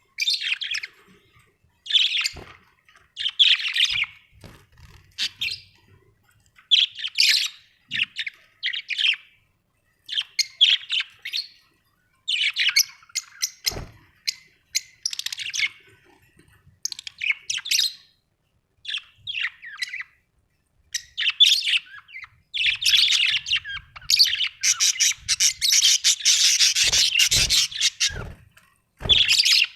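Pet budgerigars chirping and chattering in quick bursts with short pauses, growing into a dense, almost unbroken warble near the end, with a few low knocks among it.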